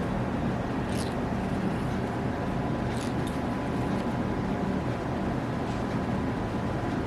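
Eyebrow-threading cotton thread rasping briefly twice as it twists out hairs, about a second in and again about three seconds in, over a steady background hum.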